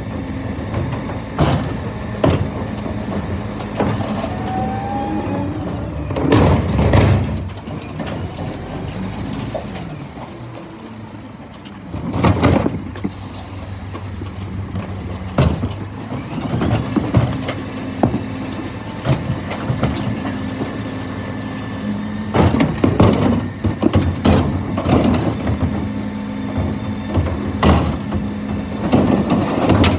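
Scania P320 refuse truck's diesel engine running steadily, with repeated metallic knocks and clanks throughout. The engine hum drops away briefly near a third of the way in.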